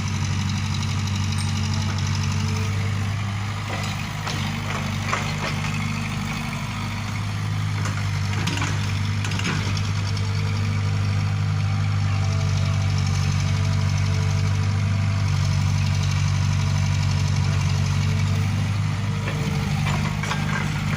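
Large vehicle engine running steadily at a low, even pitch, easing slightly about four to seven seconds in, with a few short knocks or clanks around eight to ten seconds in.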